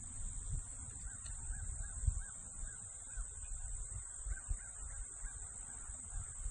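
Steady high-pitched insect chirring, with a bird calling in a quick series of short notes for a few seconds. Low irregular bumps of wind or handling on the microphone.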